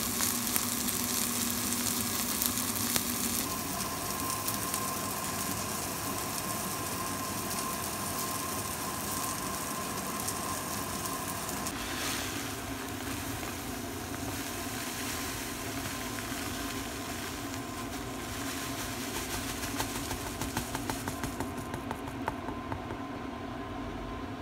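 Zucchini pancake (aehobak-jeon) batter sizzling in oil in a frying pan, with a thin steady tone joining about three and a half seconds in and more frequent pops near the end. The sizzle cuts off suddenly at the end.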